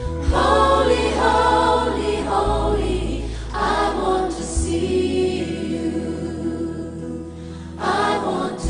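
Gospel music: a choir singing over long held bass notes that change pitch a couple of times.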